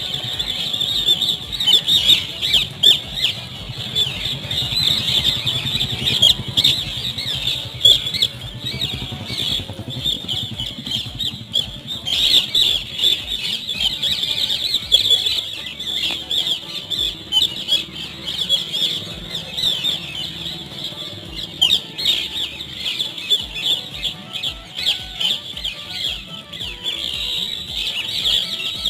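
A flock of green parrots chattering, a constant mass of quick, shrill overlapping calls.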